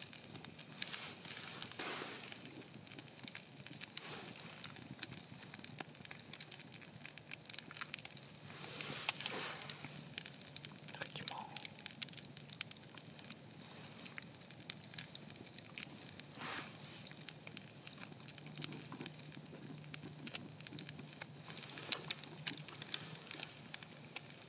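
Campfire crackling, with many irregular sharp pops and snaps.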